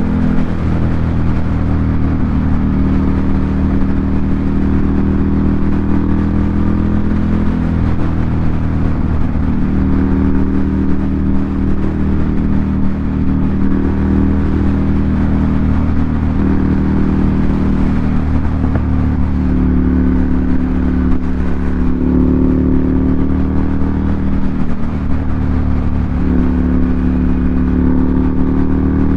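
Ducati Monster 797's air-cooled 803 cc L-twin running through an aftermarket SC Project exhaust, holding a fairly steady engine speed. Its pitch shifts slightly several times, around a quarter, half and two-thirds of the way through.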